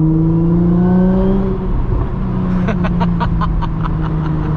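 Audi S4 B8.5's supercharged 3.0-litre V6 through an AWE Touring cat-back exhaust with test pipes, revving up under acceleration for about a second and a half, then lifting off. On the lift-off the exhaust gives a rapid string of pops and crackles, several a second, over the engine note.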